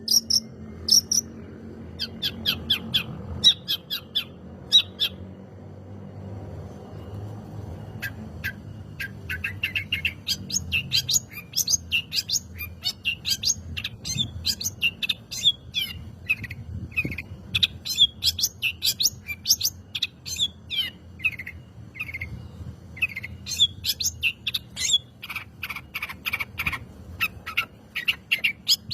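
Long-tailed shrike (cendet) singing a fast run of sharp, high chattering notes. The bird pauses briefly a few seconds in, then resumes more busily. A faint low hum sits underneath.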